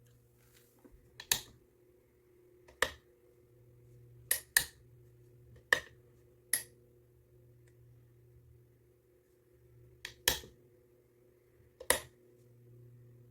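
Electric fan motor humming faintly and steadily, with about eight sharp clicks at irregular spacing over it.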